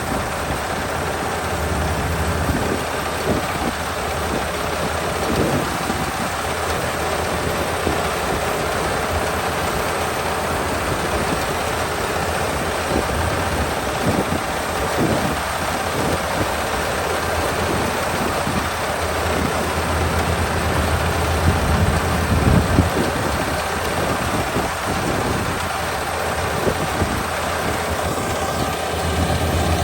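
Kubota ER572 combine harvester running steadily: the 72-horsepower diesel engine and machinery give an even rushing noise over a low drone.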